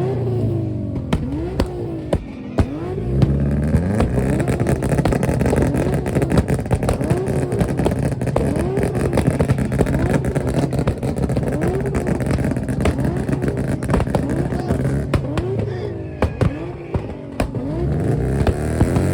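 A tuned car engine revved up and down over and over, about once a second, over a steady engine drone, with sharp exhaust pops and bangs crackling throughout.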